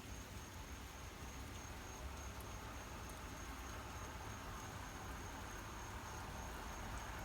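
Crickets chirring steadily in one continuous high, finely pulsing trill, over a faint low rumble and hiss.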